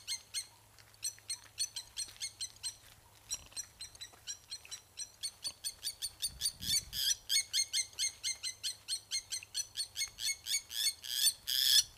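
A bird flying overhead gives a rapid, steady series of sharp, ringing alarm calls, several a second, louder in the second half. These are the calls of a bird defending its ground, about to swoop at the people below.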